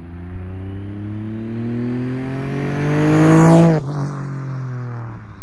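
Turbocharged Honda K24 four-cylinder accelerating hard, its note rising steadily for nearly four seconds with a hissing rush building near the top. The pitch then drops sharply and settles into a lower, steady run.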